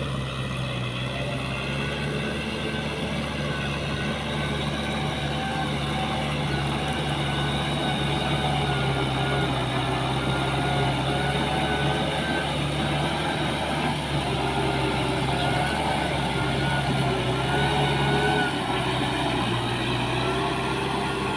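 Heavy machine's diesel engine running steadily, a continuous hum with a higher whine above it that wavers slightly in pitch.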